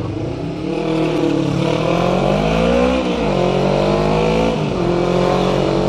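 Motorcycle engine revving: the pitch climbs and drops twice, then holds steady.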